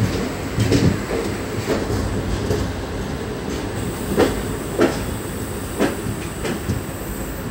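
Passenger train rolling slowly out of a station, heard from an open coach doorway: a steady rumble of wheels on rail with irregular clicks and knocks, roughly one a second, as the wheels cross rail joints.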